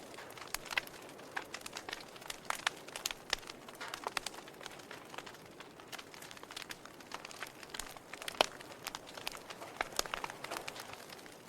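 Wood fire burning in a fireplace, the logs crackling with irregular sharp pops and snaps over a soft steady hiss; the loudest pop comes about eight seconds in.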